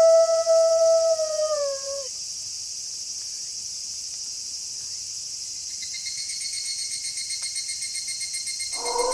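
A wolf howl, one long steady note that drops in pitch and dies away about two seconds in. Then a steady high trill of night insects fills the gap, with a faster pulsing chirp joining about six seconds in, before a second howl begins near the end.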